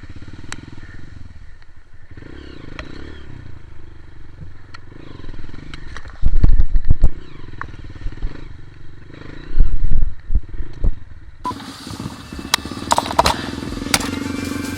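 Dirt bike engine running and revving on a slippery muddy trail, with clatter. Two stretches of very loud low bursts come about six and ten seconds in.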